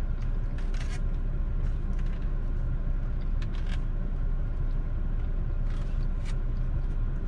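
Steady low rumble of a parked car idling, heard from inside the cabin, with a few faint short clicks scattered through it.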